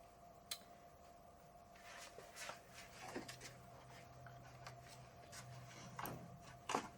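Faint handling sounds: a single sharp click, then light rustling and taps. A low steady hum comes in about two and a half seconds in.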